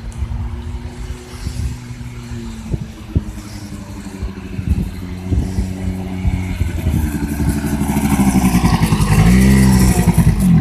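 Small 100cc Apache quad bike engine running, with scattered knocks and rattles. It revs up and gets louder about two-thirds of the way in, its pitch rising and falling briefly near the end.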